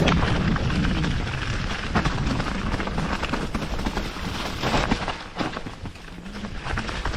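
Canyon Spectral AL6 enduro mountain bike riding down a wet trail: tyre noise on mud and rock with frequent clatters of chain and frame over bumps, and wind rumbling on the microphone.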